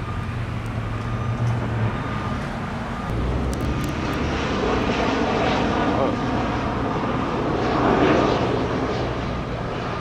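An airplane flying over, its rumble building and peaking about eight seconds in before easing off, over a steady low engine hum.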